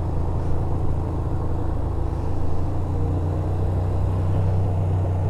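Yamaha SRV250's V-twin engine running at steady low revs while the motorcycle rides downhill, with a hum of wind and road noise.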